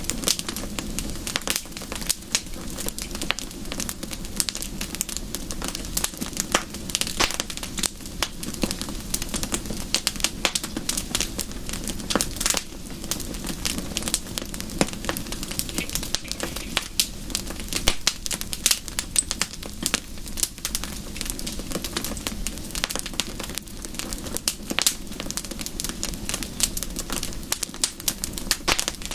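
Wood fire burning in a fireplace, crackling with constant irregular pops and snaps over a low steady rush of flame.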